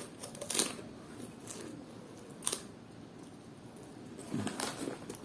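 Crunchy bacon-flavoured snack chips crunching as they are bitten and chewed: a few sharp, separate crunches, the clearest about half a second in, about two and a half seconds in and near the end.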